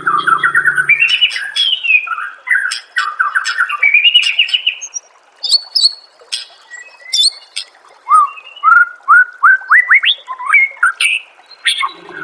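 White-rumped shama singing: fast rattling trills and sharp clicks, then a run of quick rising whistled notes from about eight seconds in.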